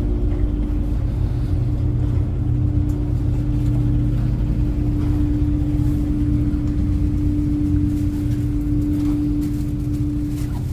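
Engines of a high-speed passenger ferry running under way, a steady low drone with a constant hum.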